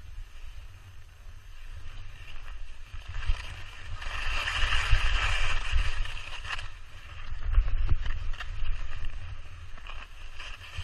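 Skis sliding and scraping over snow and ice at speed, a rushing hiss that swells about four seconds in, over a steady low rumble of wind buffeting the microphone.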